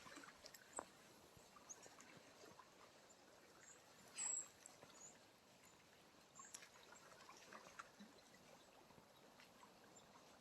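Near silence: faint outdoor ambience with a few small scattered clicks and one brief high-pitched sound about four seconds in.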